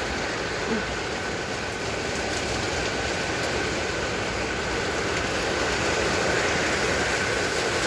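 Heavy rain and wind of a severe thunderstorm, a steady, unbroken rushing noise, with a faint steady high tone in the background.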